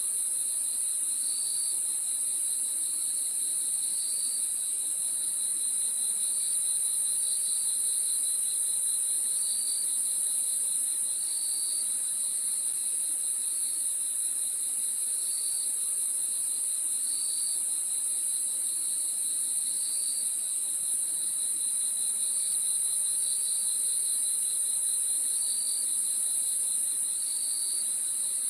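Night chorus of crickets: a steady, very high-pitched trilling drone, with a fast pulsing trill beneath it and short chirps repeating every second or two.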